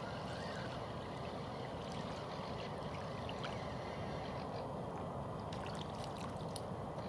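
Steady rush of flowing river water, with a few faint clicks in the second half.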